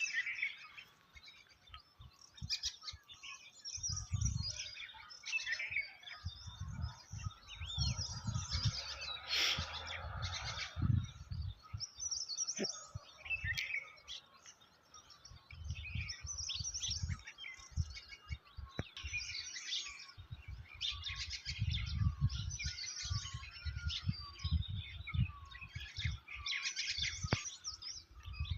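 Several songbirds chirping and singing in a forest, with one short call repeated about once a second through the second half. Intermittent low rumbles come and go underneath.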